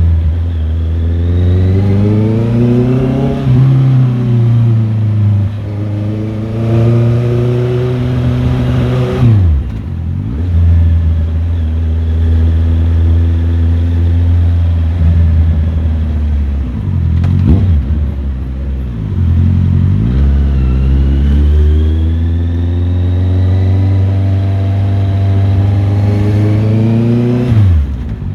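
Motorcycle engine being ridden hard, its pitch climbing and falling with the throttle, with sharp dips where the throttle snaps shut for gear changes or corners: about a third of the way in, twice more past halfway, and again at the very end.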